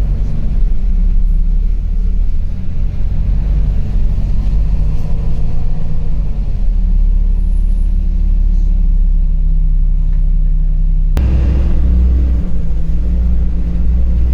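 LiAZ 5292.65 city bus under way, heard from inside the cabin: steady engine hum and road rumble. About eleven seconds in, a sharp click is followed by an abrupt shift to a louder, deeper rumble.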